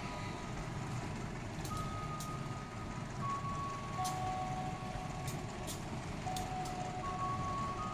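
Passenger train running slowly along the platform track with a steady low rumble. Over it, a slow tune of long held tones steps up and down, with a few sharp high clicks.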